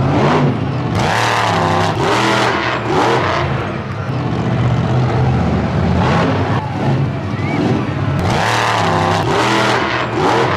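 Monster truck engine revving hard in repeated surges, the pitch rising and falling as the throttle is blipped and floored through a freestyle run.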